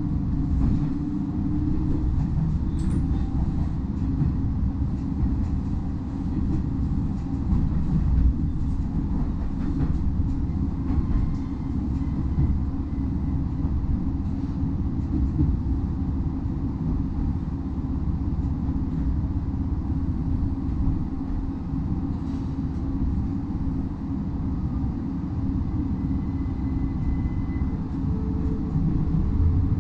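Diesel railcar running along the line, heard from inside the passenger cabin: a steady low rumble of engine and wheels on the rails, with a few faint clicks.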